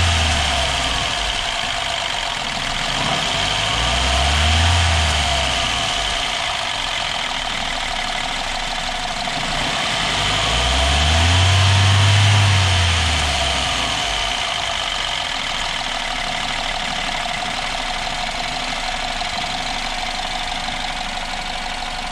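BMW N13 1.6-litre turbocharged four-cylinder engine, just fitted with new spark plugs, revved three times, the last blip about ten seconds in and the longest, then settling to a steady idle with all four cylinders firing and no misfire. Pops and bangs come from the exhaust off the throttle, a feature of the tune that the owner means to remove.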